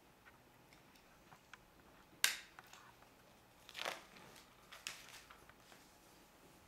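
Plastic Lego pieces being handled and fitted together during building: scattered light clicks, one sharp click a little over two seconds in, and a short rustle just before four seconds.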